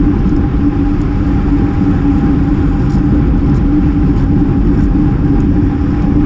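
Steady wind rush and road noise from a road bicycle riding at speed, heard on an action camera's microphone, with a steady hum and a few faint ticks.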